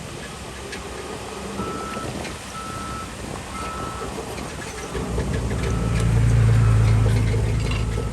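A heavy diesel machine's reversing alarm beeping about once a second. Under it a diesel engine runs and grows much louder about five seconds in.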